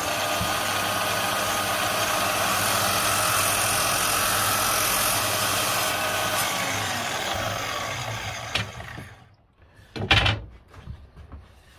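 Mitre saw with a new blade, turned down a couple of speed levels, running steadily while slowly cutting through wooden moulding, then winding down after about eight seconds. A short knock comes about ten seconds in.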